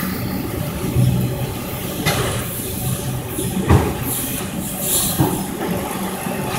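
Autorack freight cars rolling past on the rails: a steady rumble of wheels on track, with a few sharp clanks, the loudest a little past halfway.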